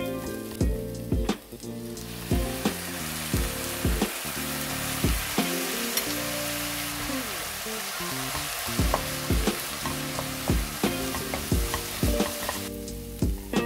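Fish cake strips, carrot and onion sizzling in a hot oiled wok while being stirred with a wooden spatula. The sizzling swells about two seconds in, as soy sauce goes into the hot pan, and stops abruptly near the end. Background music with a steady beat plays throughout.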